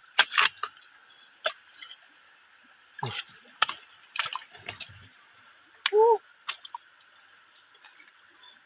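Scattered splashes, drips and sharp knocks of hands working among wet rocks in shallow water while hunting crabs. A brief pitched call sounds about six seconds in.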